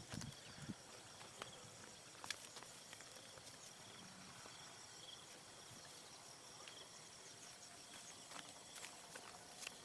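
Quiet outdoor ambience: a faint, steady high insect drone, with scattered small clicks and rustles.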